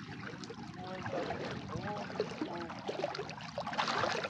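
Water splashing as someone bathes in a stream, growing louder near the end, with faint voices in the background.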